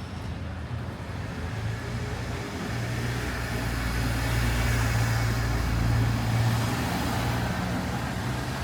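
A motor vehicle's engine passing close by on a city street: its low hum grows louder, peaks about five or six seconds in, then eases off, over general traffic noise.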